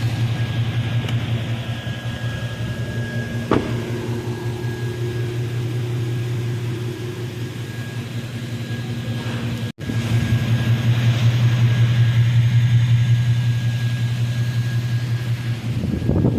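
2018 GMC Sierra's V8 engine running at a steady idle with its new water pump fitted, with a single sharp click a few seconds in and a brief break a little under ten seconds in, after which it is somewhat louder.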